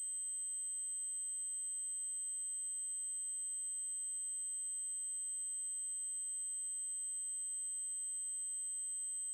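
Steady, very high-pitched 8192 Hz triangle-wave tone, electronically generated, holding one unchanging pitch.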